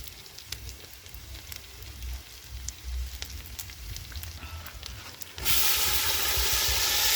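Light scattered crackling for about five seconds, then food hitting hot oil in a cooking pot and sizzling loudly and steadily from about five and a half seconds in.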